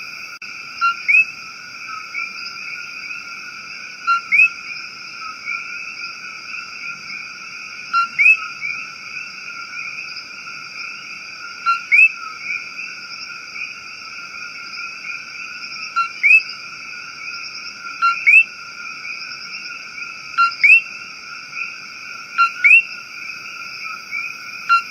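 Rainforest ambience: a steady, high-pitched ringing chorus of calling frogs and insects. Over it, a short rising whistled call repeats in quick pairs every two to four seconds.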